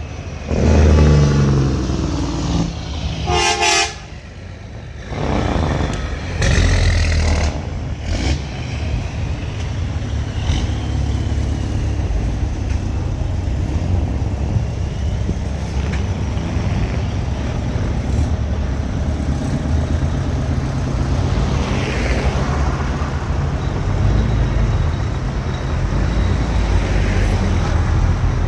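Convoy of vintage diesel semi trucks running and rolling by, with a short horn toot about three and a half seconds in.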